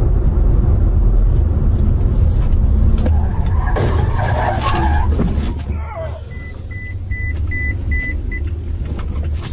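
Steady low road-and-engine rumble of a moving car. A short burst of louder noise comes near the middle, then a run of about six short, evenly spaced high beeps.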